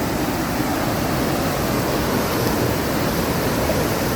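Steady loud rush of churning water from a raging-river rapids ride.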